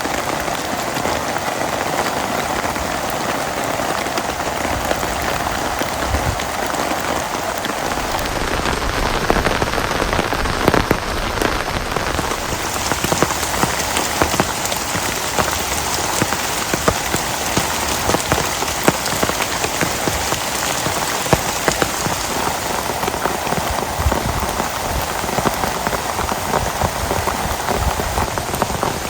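Heavy rain falling steadily, with many individual drops striking close by; the hiss turns brighter a little under halfway through.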